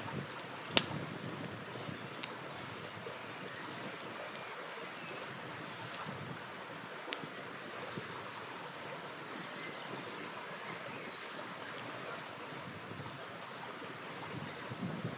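A river flowing in a steady rush, with a wood campfire crackling over it in scattered sharp pops; the loudest pop comes about a second in, another near the middle.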